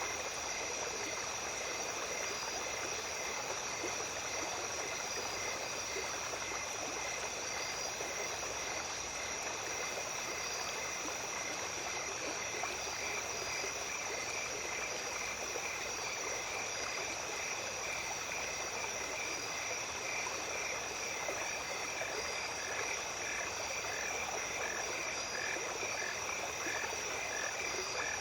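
Small stream running at night, with a steady high-pitched insect chorus and a repeated short call about twice a second that grows more prominent from about halfway through.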